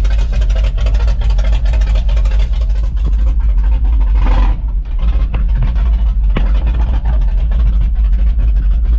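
Small-block Chevy 350 V8 engine of a 1976 Chevy K10 pickup running, a deep, steady rumble of rapid, even exhaust pulses.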